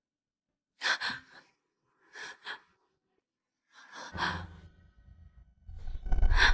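A woman's sharp, breathy gasps and sighs in three short bursts. A low rumble sets in about two-thirds of the way through and grows louder near the end.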